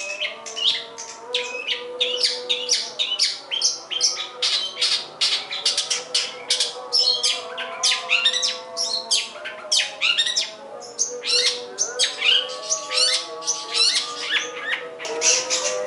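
Long-tailed shrike (pentet/cendet) singing its mimicked repertoire: a fast, unbroken string of sharp, scratchy chirps and call snippets, several a second.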